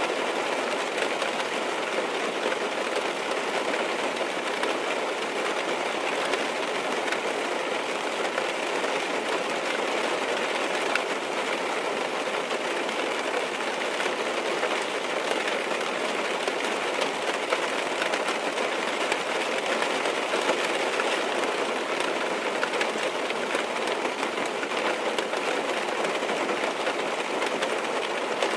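Steady rain falling on a car's roof and windows, heard from inside the cabin as an even patter with fine ticks of drops.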